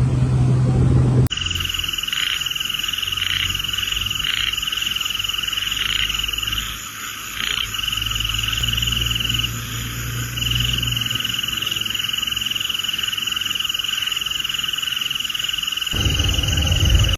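A continuous high-pitched animal trill, starting abruptly about a second in, breaking off briefly twice midway and stopping shortly before the end, over a faint low rumble.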